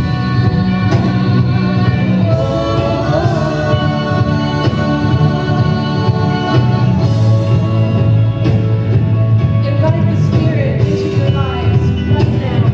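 Live worship band playing a song, with singing over guitar and drums.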